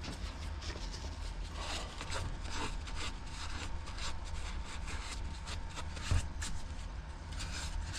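Irregular scraping and rubbing of hands working on parts of a small two-stroke string trimmer, in short uneven strokes, with a thump about six seconds in. A steady low hum runs underneath.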